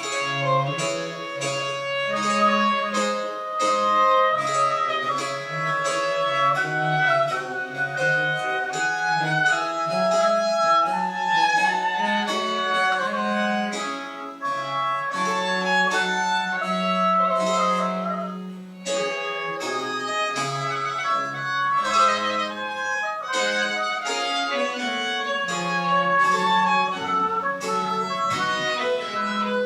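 Baroque chamber ensemble starting a piece together: a violin melody over a moving bowed bass line in quick, detached notes.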